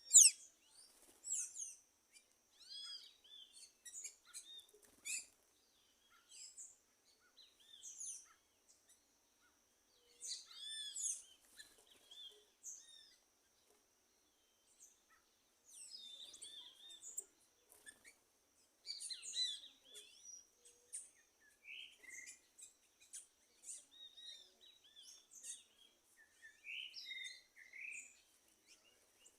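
Several wild birds calling, a mix of short chirps, whistles and quick sweeps from different birds, loudest a sharp falling note right at the start. A faint steady high tone runs underneath.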